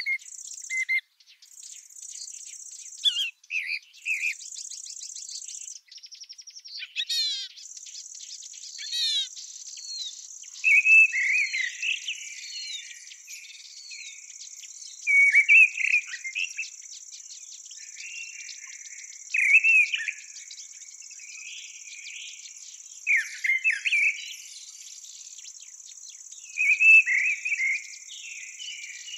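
Field ambience of singing birds and stridulating insects. A high insect buzz stops and starts in the first few seconds, then runs without a break from about seven seconds in. A bird sings short phrases every three to four seconds, and two quick falling trills come near the start.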